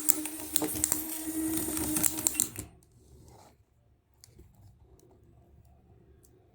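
A small electric toy motor running hard with a steady buzzing hum and rapid crackling clicks, cutting off suddenly about two and a half seconds in, followed by a few faint clicks.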